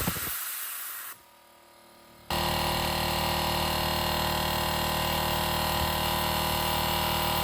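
Air compressor running steadily: a motor hum with a hiss of air. It starts abruptly about two seconds in, after a short pause.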